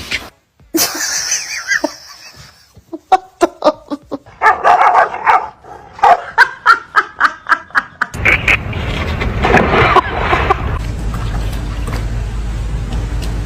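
A dog making a quick string of short barks and yelps, with people laughing. About eight seconds in a steady low hum starts under the sounds.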